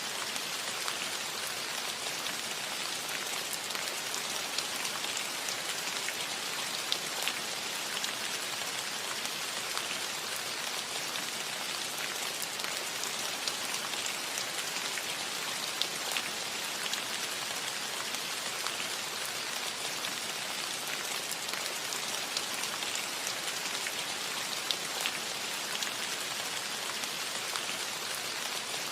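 Steady rain falling on a roof: an even, unbroken hiss with many small drop ticks scattered through it.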